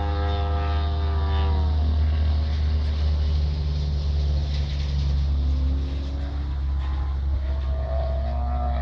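Engine of a large radio-controlled model aircraft running, its pitch dropping sharply as it throttles back about two seconds in, then rising again near the end, over a steady low rumble.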